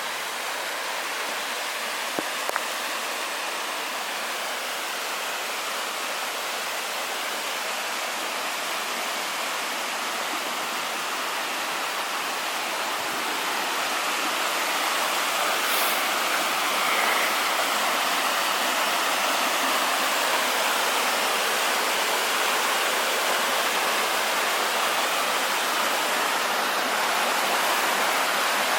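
Waterfall: the steady rush of falling water, growing a little louder about halfway through. Two brief ticks about two seconds in.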